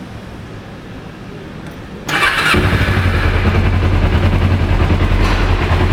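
2007 Kawasaki Ninja 250's carbureted parallel-twin engine being started: the starter cranks about two seconds in, the engine fires right up almost at once and settles into a steady idle.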